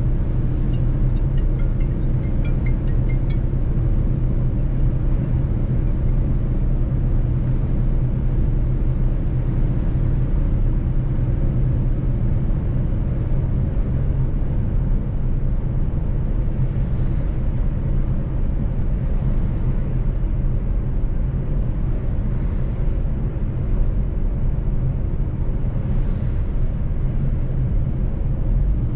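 Mercedes-Benz truck's diesel engine running steadily under way, a constant low drone with road rumble, and a few faint high ticks in the first few seconds.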